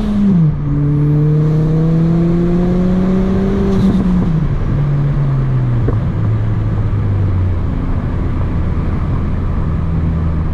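Turbocharged 1.6 EcoBoost four-cylinder of a big-turbo Ford Fiesta ST on a hard pull. The engine note drops with a gear change just after the start and climbs steadily for about four seconds. Then the driver lifts off with a short hiss, and the engine falls back to a lower, steady speed.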